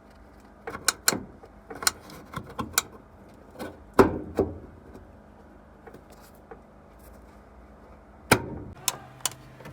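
Scattered sharp clicks and knocks from the inside of a Whirlpool washing machine, with its back cover off, as the unbalance-switch lever and nearby parts are worked by hand. There are about a dozen of them, with two louder knocks about four and eight seconds in.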